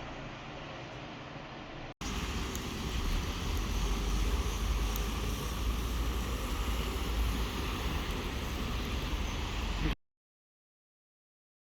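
Steady rushing noise with a deep rumble, louder after a sudden cut about two seconds in, then cut off abruptly into silence near the end.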